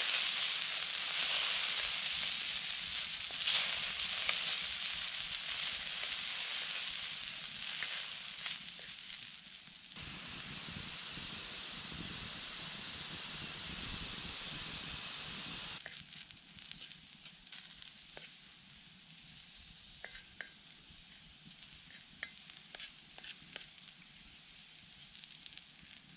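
Diced potatoes sizzling on a hot steel plate over a wood fire. The sizzle is loud for the first ten seconds, changes character about ten seconds in, and about six seconds later drops to a quieter hiss with scattered small clicks.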